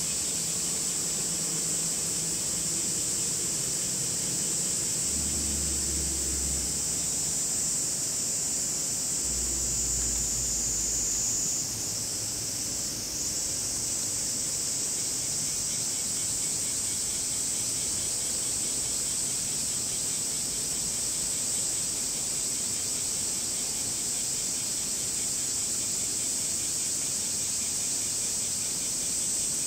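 Cicadas calling in a steady, high-pitched drone that dips briefly about twelve seconds in.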